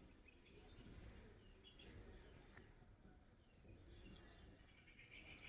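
Near silence with a few faint, brief bird chirps.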